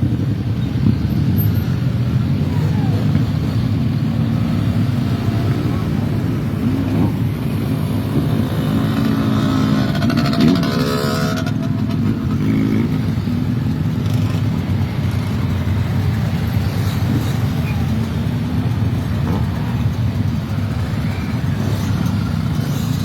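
Many motorcycle engines running at low revs in a steady, dense din as bikes arrive, with one engine note rising briefly about ten seconds in.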